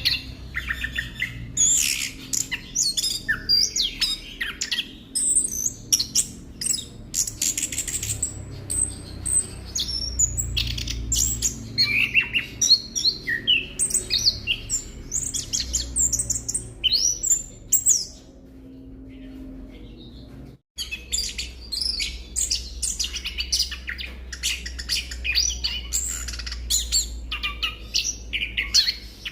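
Chestnut-capped thrush (anis kembang) singing a fast, continuous run of varied chirps and trills. The song pauses briefly about two-thirds of the way through, cuts out for an instant, then resumes, over a low steady hum.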